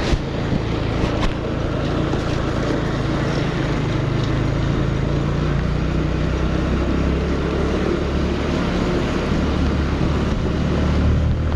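Motorcycle engine running steadily under a broad rushing noise, with a few sharp clicks in the first second or so.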